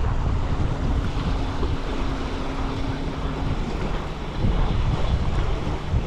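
Strong, gusty wind buffeting the microphone, with waves washing on the shore underneath.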